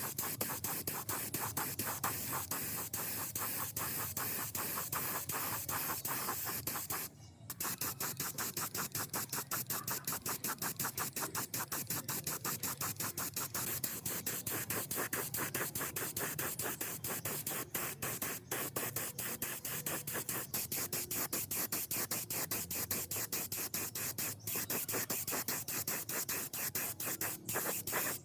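Rapid, repeated rubbing strokes by hand, several a second, with a brief pause about seven seconds in: abrasive scrubbing or sanding on a metal part.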